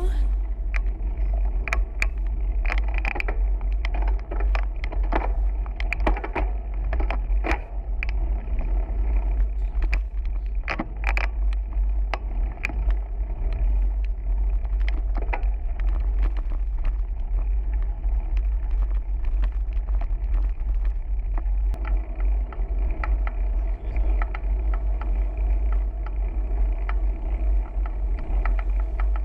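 Ride noise on a bicycle-mounted camera: heavy wind rumble on the microphone and road noise throughout, with many short clicks and rattles, thickest in the first half.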